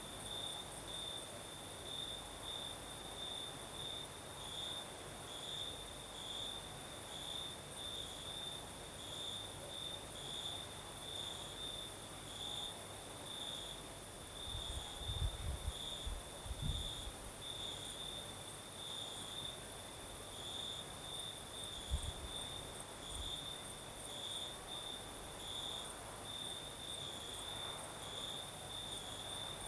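Crickets chirping at night: a steady high trill that pulses about one and a half times a second, over a fainter, higher insect hiss. A few short low thumps come about halfway through.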